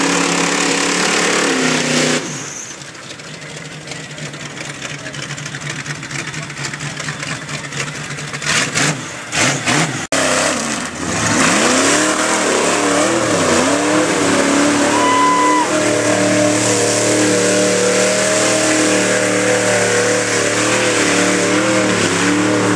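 A truck engine running with a steady note. Its pitch rises and falls with a few revs about halfway through, then it settles back into a steady run. A few sharp knocks come just before the revs.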